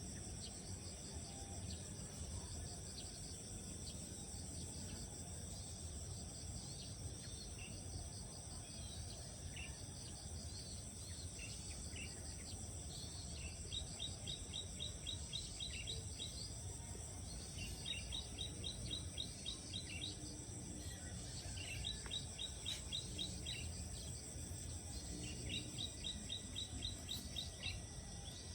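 Insects trilling steadily over a low rumble. From about halfway in, a quick run of high chirps repeats roughly every four seconds, with scattered single chirps in between.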